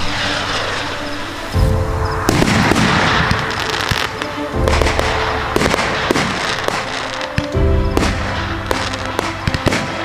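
Multi-shot fireworks cake firing in rapid succession, sharp shots and crackling bursts one after another, mixed with background music.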